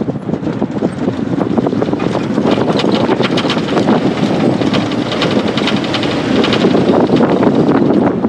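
Moving car: engine and road noise with gusty wind buffeting the microphone, heard from inside the 1952 classic car as it drives along.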